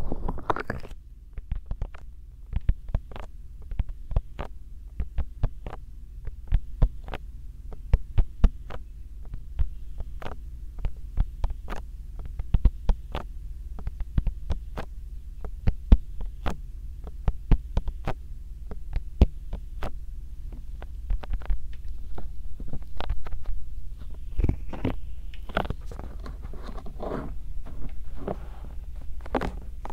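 Bare hands massaging a binaural microphone's ears: irregular taps and pops of skin against the mic over a steady low hum, with a stretch of broader rubbing about three-quarters of the way through.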